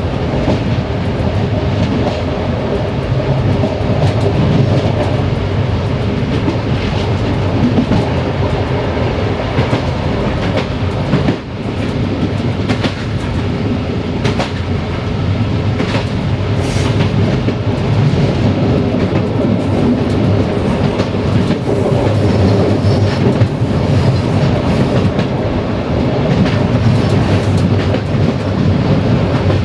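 Passenger train running along the line: a steady rolling rumble of the wheels on the rails, with irregular clickety-clack as the wheels pass over rail joints.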